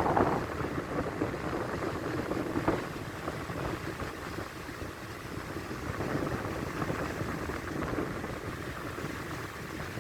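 Heavy storm surf of the Black Sea breaking and washing up a beach: a steady rushing noise that swells briefly about two and a half seconds in.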